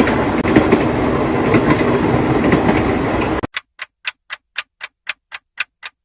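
Train running on the rails, a dense rumbling clatter that cuts off suddenly about three and a half seconds in. It is followed by sharp, evenly spaced ticks, about five a second, with silence between them.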